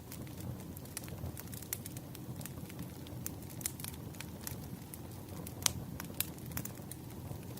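Wood fire crackling: a steady low rumble of burning logs with irregular sharp pops and snaps, the loudest pop coming about two-thirds of the way through.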